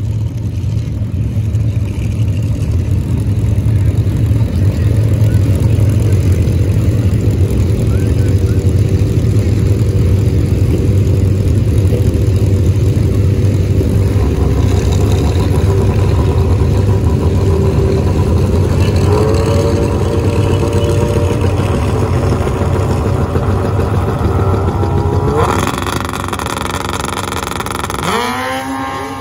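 Car engines running loudly with a steady low rumble. Near the end comes a sudden louder rush of noise, then an engine revving up, rising in pitch.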